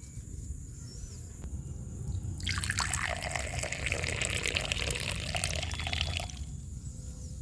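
Liquid being poured and splashing, starting about two and a half seconds in and stopping about four seconds later.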